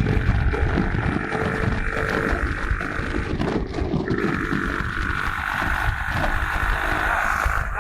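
Motorcycle engine running during a ride, with rough wind buffeting on the microphone; a steady higher tone comes in about halfway through.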